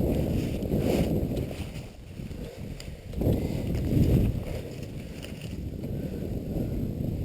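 Wind buffeting the microphone as a low, uneven rumble that swells in gusts, strongest about three to four seconds in.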